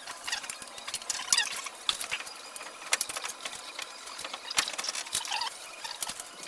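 Irregular clicking and clinking of hand tools on metal truck parts, with a few short squeaks.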